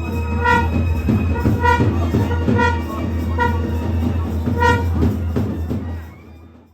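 Processional music: a loud horn-like wind instrument sounding five short notes of the same pitch, about one a second, over a steady low drone. It fades out near the end.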